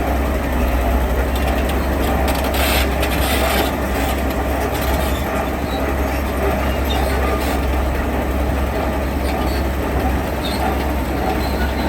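Heavy diesel construction machinery running steadily with a deep, constant rumble, and a brief noisier burst about three seconds in.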